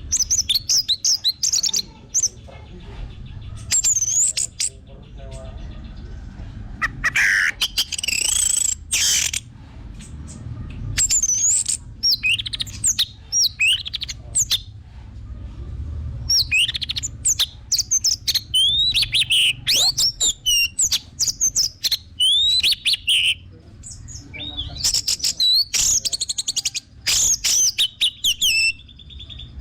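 Orange-headed thrush singing: loud, varied phrases of high, bending whistles mixed with fast rattling notes, in bursts a second or two long with short pauses between them, over a low steady background rumble.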